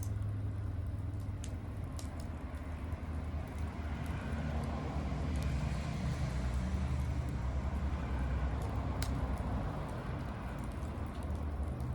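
Bonfire crackling, with scattered sharp pops (a clear one about nine seconds in) over a hiss, all above a steady low rumble.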